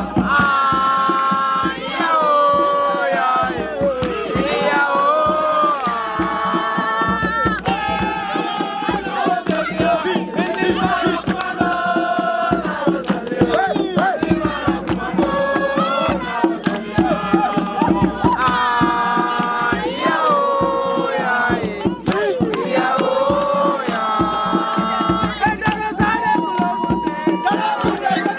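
Voices chanting a song over fast, steady hand-drum percussion.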